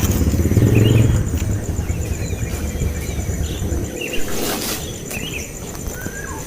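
Baby birds (nestlings) giving short, high scattered cheeps. A low rumble fades out about four seconds in, and a steady, high, faintly pulsing insect-like buzz runs underneath.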